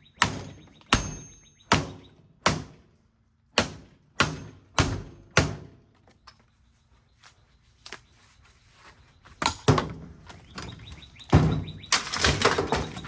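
Ceiling fan blades being banged hard against the fan: a run of about eight sharp knocks, roughly one every two-thirds of a second, then a pause, two more knocks close together, and a burst of clattering near the end.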